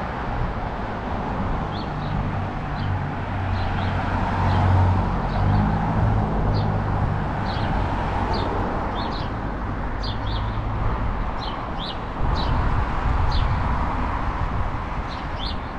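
Small birds chirping in short, repeated notes over the steady rumble of road traffic, which swells as vehicles pass about four to seven seconds in and again from about twelve seconds.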